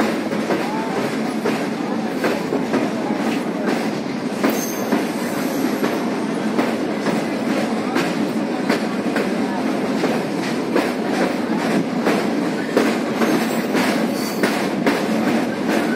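Indian Railways train running at speed, heard from aboard: a steady rolling rumble of the coach with irregular clicks and clatter from the wheels over the track.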